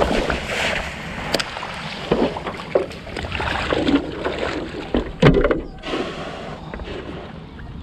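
Stand-up paddleboard paddle strokes splashing and pulling through calm river water, a splash every second or so, quieter near the end.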